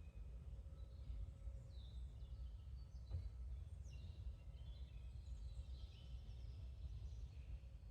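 Faint small-bird chirps and short calls over a steady low rumble, with a single sharp click about three seconds in.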